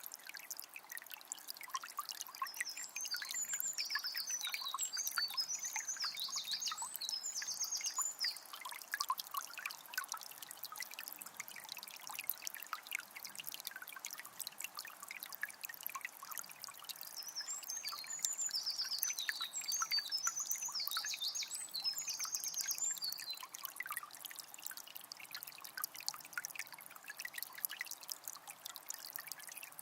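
Water of a small spring trickling and splashing steadily. A songbird sings two long runs of rapid, intricate song, about three seconds in and again a little after halfway.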